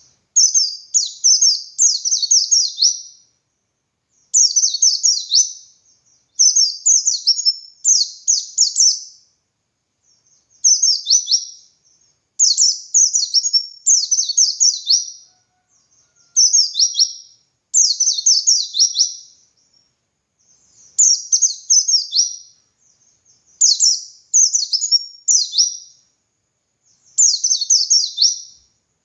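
White-eye (pleci) singing in its full, vigorous 'ngalas' style: phrases of rapid, high twittering notes, each about one to two seconds long, repeated again and again with short pauses.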